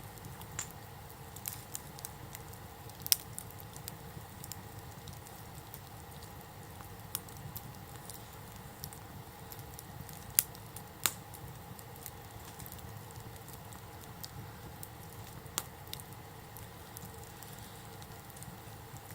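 Wood campfire crackling, with scattered sharp pops over a steady low rush, the loudest pops about three seconds in and twice around ten to eleven seconds.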